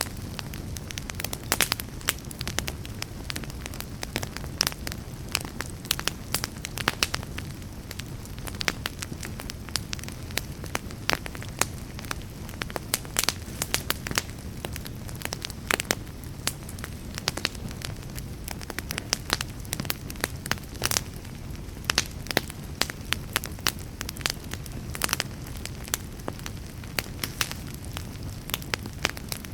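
Wood fire in a fireplace crackling, with frequent irregular sharp pops over a low, steady rumble.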